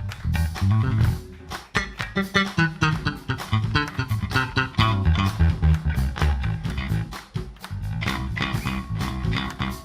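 Electric bass guitar solo: fast, busy plucked bass lines over a drum kit keeping time with crisp hits.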